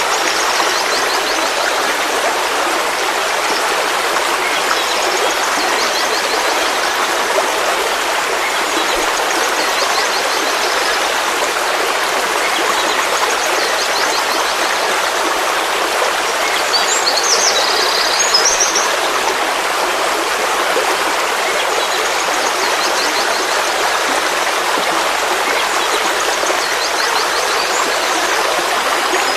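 Forest stream flowing steadily, with a constant rush of water. Birds sing faintly now and then over it, with one louder burst of chirping about two-thirds of the way through.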